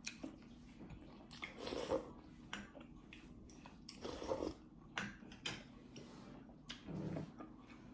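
Close-up eating sounds: chewing and biting into beef momos, with scattered short clicks of utensils on dishes.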